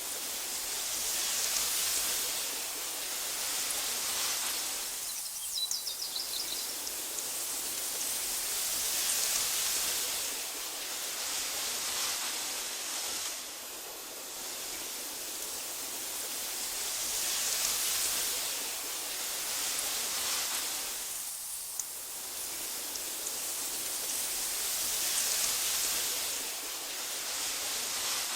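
Wind through tall meadow grass: a steady high hiss that swells and eases about every eight seconds, with a few faint chirps in the first few seconds.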